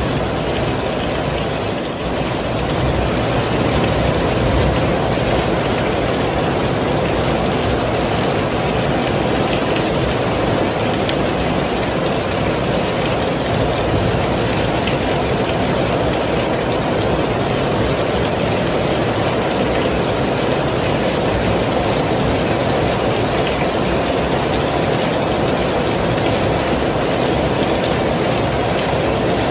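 Heavy rain falling steadily: a dense, even hiss of water with a deep low rumble underneath.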